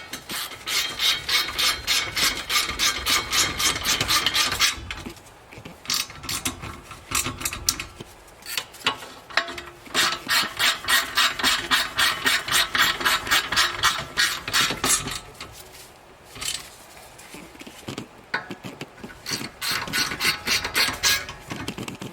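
Hand ratchet clicking rapidly in three long runs as it drives in the Loctited bolts of a car's brake dust shield, with quieter metal handling between runs.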